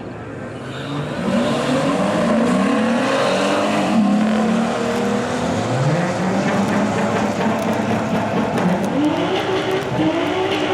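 Car engine accelerating hard at full throttle, its revs climbing, dropping back at each gear change and climbing again: about three upshifts, a little after 2 s, near 6 s and near 9 s.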